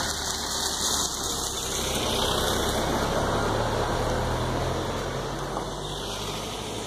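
A car engine running steadily over a noisy hiss, its low hum growing a little louder in the middle and easing off toward the end.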